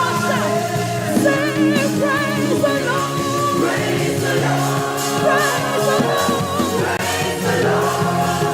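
Gospel praise music from a church band and singers: voices singing over a steady beat, with a lead voice holding wavering vibrato notes about a second in.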